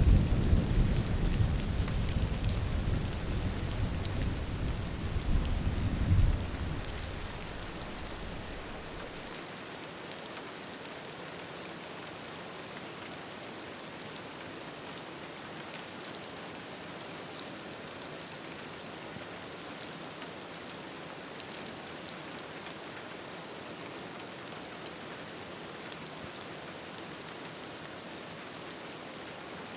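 A low rumble of thunder that swells once more about six seconds in, then fades away, leaving steady rain with scattered light ticks of drops.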